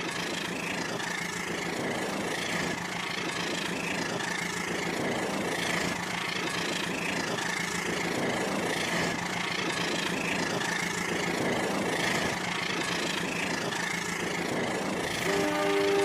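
Toy train running on its track: a steady motor hum with a regular rhythmic clatter about once a second. Near the end the toy's horn sound starts.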